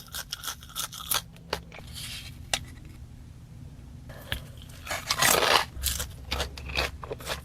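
Close-miked eating of French fries: a run of sharp crunching bites and wet mouth clicks, with a louder, longer crunch about five seconds in.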